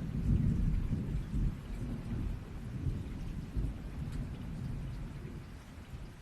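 Rain falling steadily through a low, rolling rumble of thunder that is strongest in the first couple of seconds and then slowly fades.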